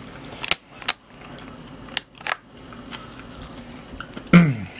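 Wet mouth smacks and chewing from a person eating a leaf-wrapped bite of jokbal (braised pig's trotters), with several sharp smacks in the first couple of seconds. Near the end comes a short hum of the voice that falls in pitch, the loudest sound.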